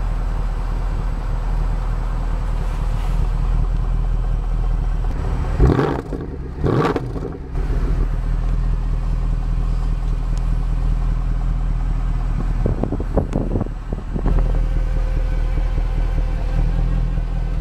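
Mercedes C63 AMG's 6.3-litre naturally aspirated V8 idling steadily, with a couple of brief louder disturbances about six seconds in and again near thirteen seconds.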